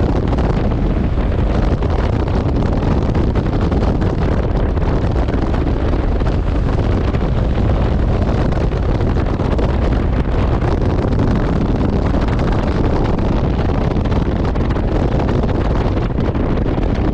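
Steady wind rush on the action camera's microphone while riding a motorcycle at speed, a dense, even noise heaviest in the low end, with no distinct engine note standing out.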